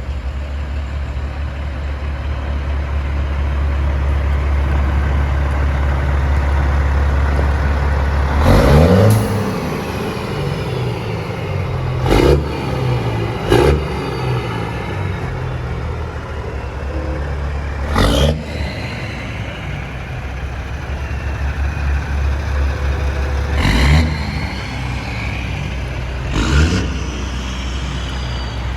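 Semi trucks' diesel engines running steadily as they pass in a line, with about six short, sharp sounds spread through it.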